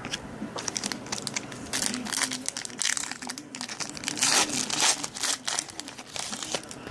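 Plastic wrapper of a trading-card pack crinkling and crackling in the hands as a pack is handled and opened, in irregular bursts, loudest around two, three and four and a half seconds in.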